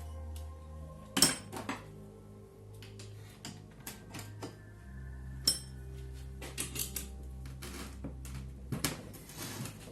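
Metal tools and engine parts clinking now and then as a GY6 scooter engine is taken apart, with a sharp clink about a second in and another about five and a half seconds in. Background music plays underneath.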